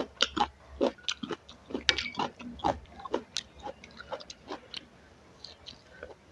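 Close-miked eating sounds: a run of small clicks, taps and crunches as food is handled and bitten, thick for about three seconds, then sparser.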